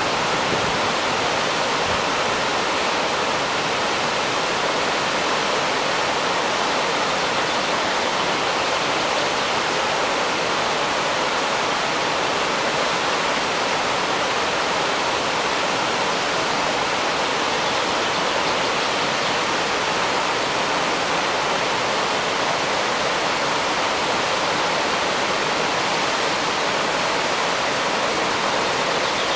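Waterfall on the river Bregava, a steady rush of falling water with no breaks or changes.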